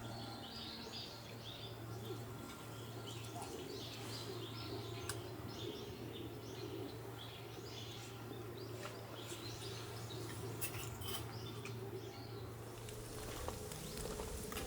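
Small birds chirping in quick repeated calls over a steady low hum, with a few faint clicks; the chirping stops near the end.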